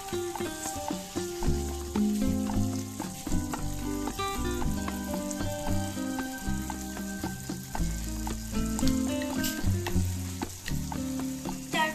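Vegetables sizzling in oil and masala in a steel kadai as fried baby corn and potato pieces are dropped in, with a few sharp clicks. Steady tones of background music run underneath.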